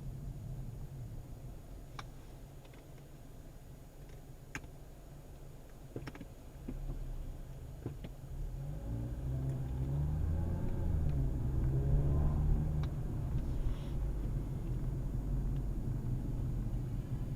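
Car running with a low rumble and a few sharp clicks in the first half. From about halfway the engine note rises as the car speeds up, then holds steady and louder.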